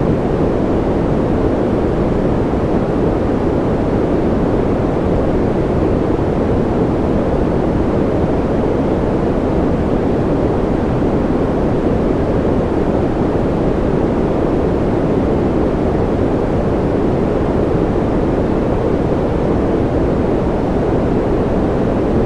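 Steady, unchanging white-noise sleep sound: an even rushing hiss with most of its weight in the low and middle pitches and little at the top, without any rhythm or breaks.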